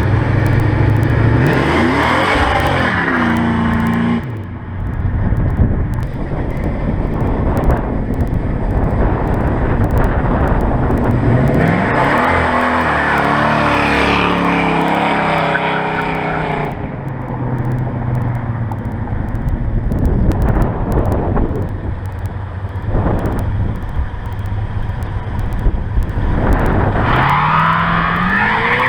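Car engines revving hard and accelerating, with the pitch climbing in separate pulls about three times, over a steady engine rumble.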